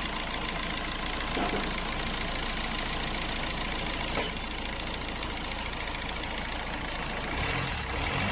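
Car engine idling steadily, with a single sharp click about four seconds in and a louder low rumble coming in near the end.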